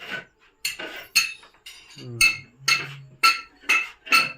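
Metal striking metal in a steady run of sharp, ringing clinks, about two a second.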